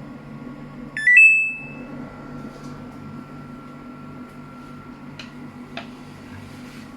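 Samsung washing machine's control panel sounding its start tune: a short, loud rising run of electronic beeps about a second in as the wash program is started. A steady low hum follows, with two faint clicks near the end.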